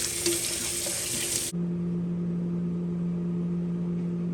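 Liquid running in a splashing stream for about a second and a half, cutting off suddenly, then a steady low hum.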